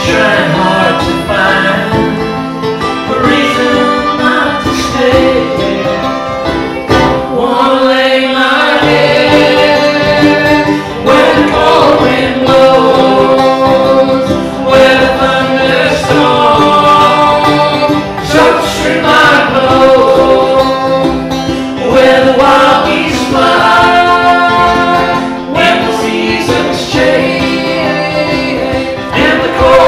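Band music in a bluegrass or country style: plucked string instruments playing with a singing voice.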